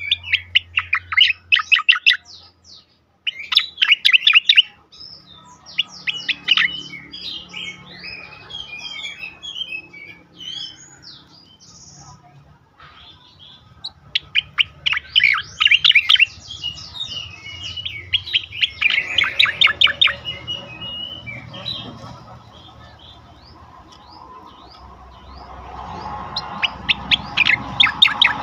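Sooty-headed bulbul (cucak koreng) singing in rapid-fire 'tembakan' bursts: several fast trills of closely repeated high notes, with scattered chirps and short whistled notes between them.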